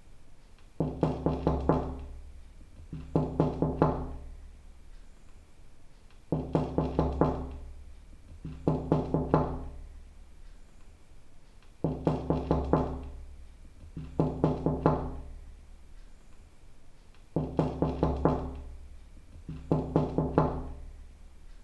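Knocking on a door: quick runs of about five knocks, each knock ringing briefly. The runs come in pairs about two seconds apart, and the pair repeats four times with pauses between.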